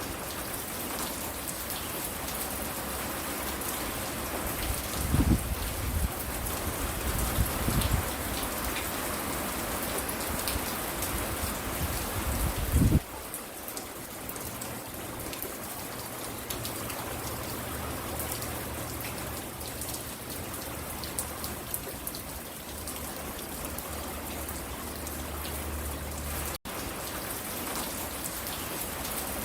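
Steady rain falling and pattering on a porch, an even hiss of drops. A few brief low rumbles stand out about 5, 8 and 13 seconds in, and the sound cuts out for an instant near the end.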